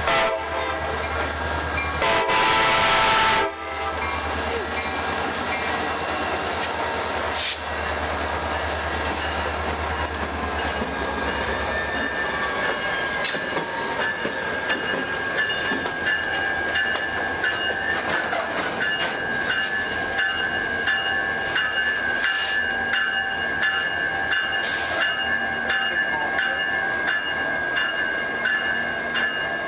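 Norfolk Southern diesel freight locomotives rumbling past at close range, with a brief loud horn blast about two seconds in. After about twelve seconds the engine rumble gives way to freight cars rolling by, the wheels clicking over rail joints with a steady thin squeal.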